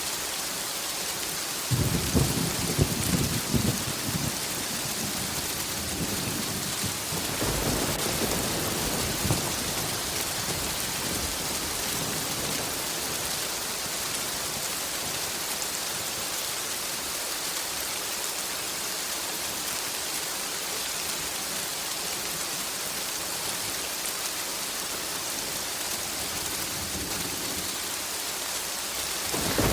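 Steady heavy rain falling, with a rumble of thunder about two seconds in and a second, softer rumble a few seconds later.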